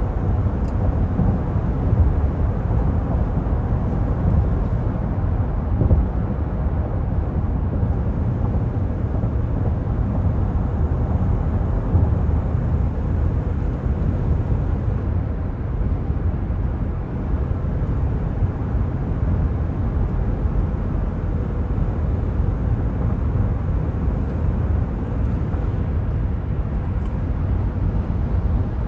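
2024 Cadillac Escalade Sport Platinum on the move: a steady low rumble of road and engine noise, with no clear rise or fall in engine pitch.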